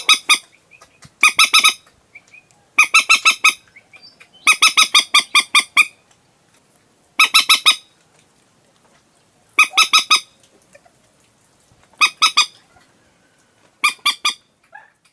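Common moorhen calling: about seven short bursts of rapidly repeated notes, each lasting about half a second to a second and a half, with pauses of a second or two between them.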